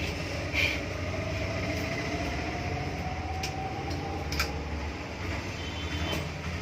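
Screws being undone on an exhaust fan's motor casing with a screwdriver: a few short sharp clicks, over a steady low rumble.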